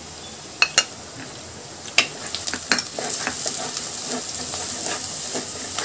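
Chopped onions and ginger-garlic paste sizzling in hot oil in a clay pot, stirred and scraped with a wooden spatula. A few sharp knocks come in the first two seconds, then the sizzling grows louder from about two seconds in as the paste is mixed through.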